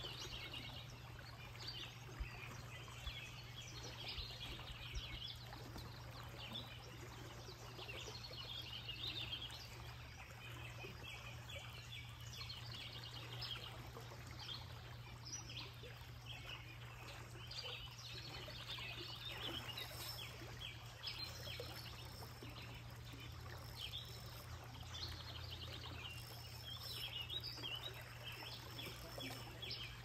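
Several birds chirping and singing in quick repeated trills, over a steady low hum of background noise.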